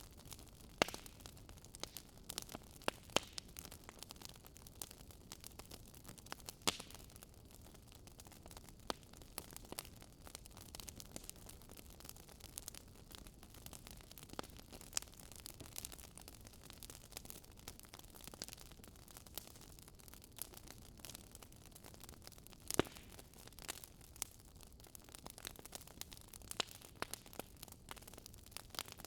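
Fireplace fire crackling: irregular sharp pops and snaps, a few louder than the rest, over a soft low hiss.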